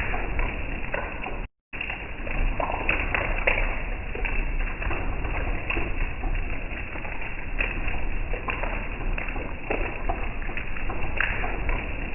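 Steady static-like hiss with scattered brief crackles and clicks, cutting out completely for a moment about one and a half seconds in.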